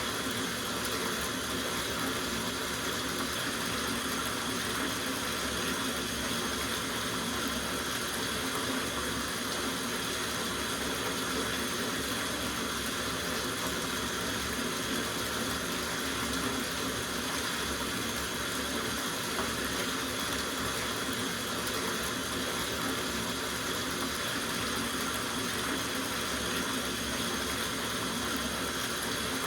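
Water running steadily from a tap into a soaking bathtub, an even, unbroken splashing rush.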